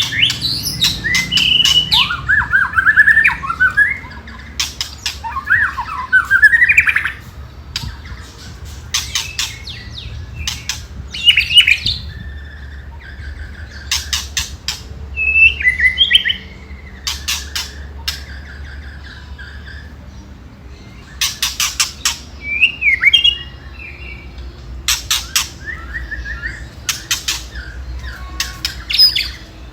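White-rumped shama giving its harsh 'ketrekan' rattle, groups of rapid sharp clicks, mixed with short whistled phrases that sweep up and down. The calls come in bursts every few seconds. This is the agitated call played as a lure to rile fighting shamas.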